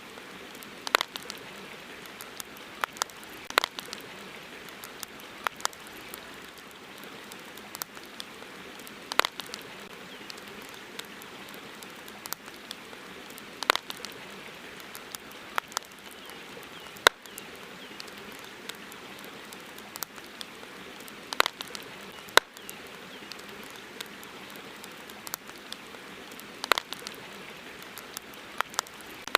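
Wood campfire crackling: irregular sharp pops, a few of them much louder, over a steady hiss.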